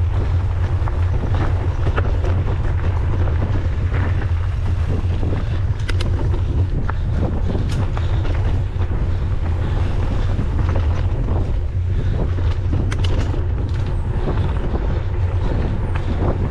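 Wind buffeting the microphone of a camera on a moving mountain bike: a steady low rumble with rushing noise, broken by a few scattered sharp clicks.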